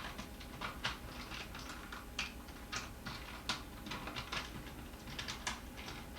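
Irregular light clicks and taps of small parts being handled by hand, a few a second at their busiest.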